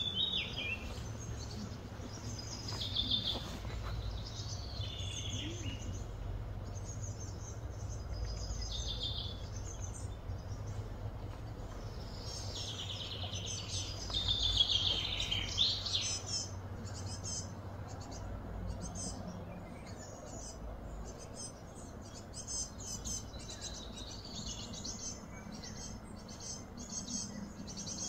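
Several birds calling and chirping, loudest a little past halfway, over a low steady hum.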